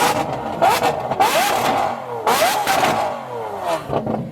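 A supercar's engine being revved hard, about four quick blips that climb in pitch and fall away, with sharp exhaust cracks between them.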